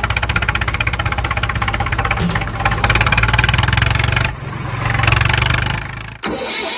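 Engine sound, most likely a tractor's, chugging fast and evenly. It cuts abruptly to a different engine sound about four seconds in, and again about six seconds in.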